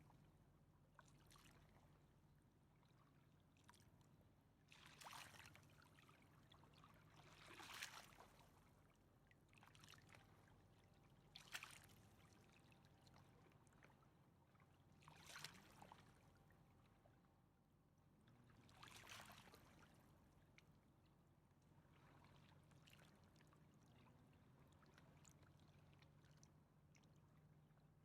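Faint river water lapping at the bank, with soft splashing washes every three or four seconds over a steady low hum.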